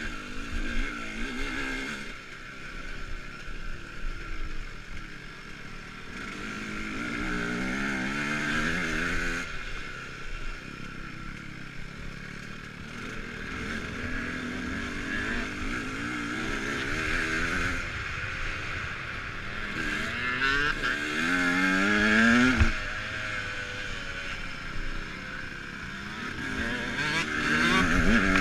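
KTM dirt bike being ridden off-road, its motor pitch rising and falling again and again as the rider opens and closes the throttle, over a steady high whine.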